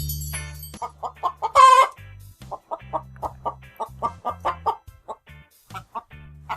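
Chicken clucking: a run of short clucks, several a second, with one loud squawk about one and a half seconds in.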